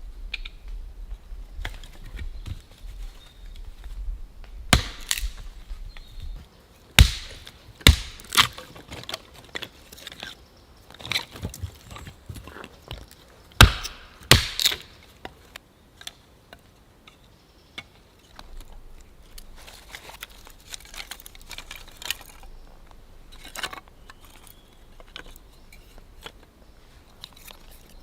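A series of sharp knocks and cracks, clustered in two bursts about a third and halfway through, with quieter handling and rustling between.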